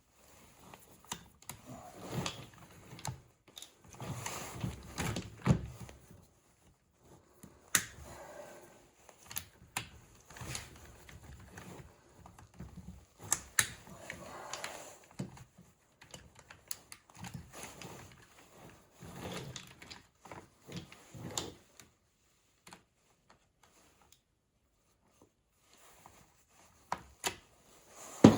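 Irregular clicks, knocks and rattles of plastic parts and hand tools being handled while taking apart a Bissell floor scrubber, with a quieter lull a little past the middle and a louder knock at the very end.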